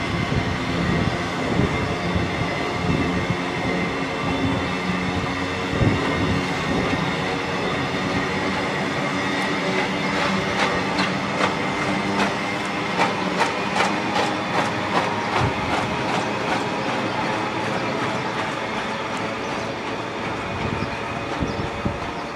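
Loaded engineering-train freight wagons rolling past at speed: a steady rumble with a thin high wheel squeal, and a run of regular clickety-clack as the wheels cross rail joints in the middle stretch.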